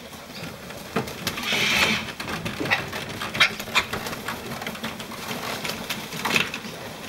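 A sulphur-crested cockatoo gives one harsh screech about a second and a half in, amid a run of sharp, irregular clicks and taps from the flock's beaks and feet at the food.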